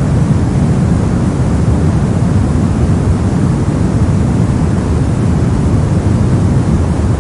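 Steady soft noise: a smooth, deep hiss with most of its weight in the low end, like pink or brown noise, with no rhythm or change.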